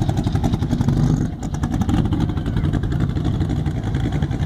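A loud vehicle engine running close by, a rapid, even pulsing over a heavy low rumble, dipping briefly about a second in.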